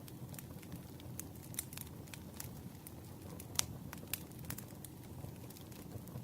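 Campfire burning: a steady low rumble of the flames with irregular sharp crackles and pops, the loudest pop about three and a half seconds in.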